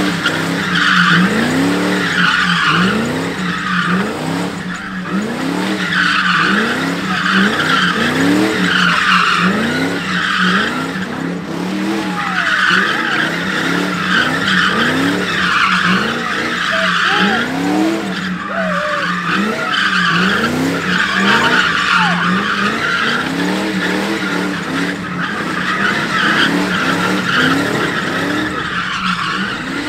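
A car doing donuts, tyres screeching in long spells with short breaks. The engine revs up and drops back about once a second as the driver holds the slide.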